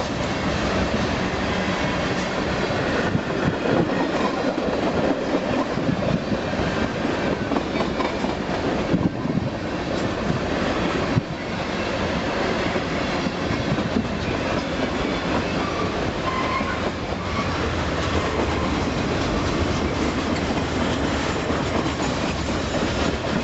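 Long freight train rolling past at close range, its cars' wheels clattering steadily over the rails.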